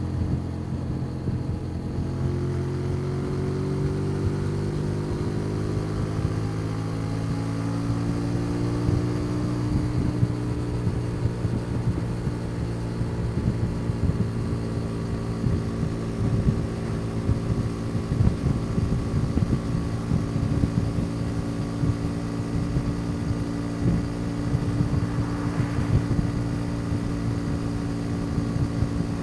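Motorcycle engine running on the move, heard from the rider's seat. Its pitch rises over the first several seconds as it accelerates, then it holds a steady cruising note.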